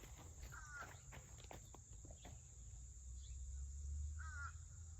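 Faint outdoor background of crickets or other insects making a steady high buzz, over a low rumble, with a few light clicks. Two short warbling chirps come about a second in and again near the end.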